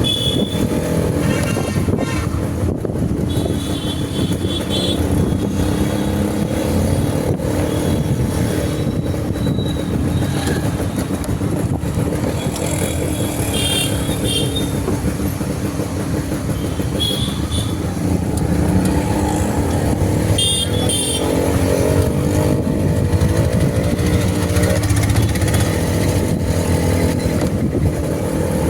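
Motorcycle running on the road, a steady engine and road rumble. Several short high-pitched toots come through at intervals, and the engine pitch rises for a few seconds near the end.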